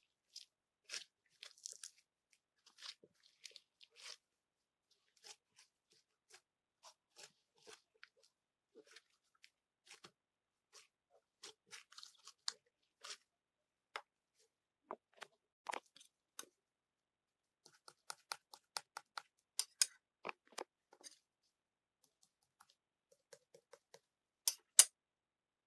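Scattered short, crisp clicks and crunches, in small clusters with gaps between them and two louder clicks near the end.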